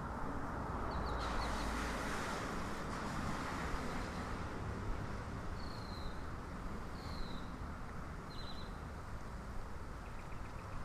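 A few scattered songbird calls: a quick run of high notes about a second in, two down-slurred whistles in the middle, and another quick run of notes later. Under them is a steady rushing background.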